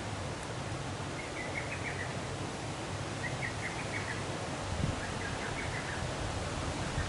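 A small bird singing the same short, high twittering phrase about every two seconds, over a steady outdoor noise with a low rumble.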